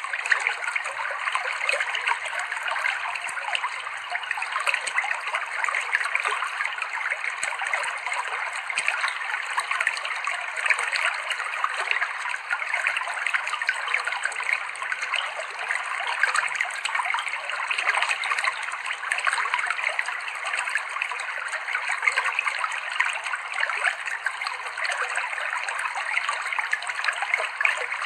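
River water flowing over rocks: a steady, even rush of trickling, bubbling water, without any deep rumble.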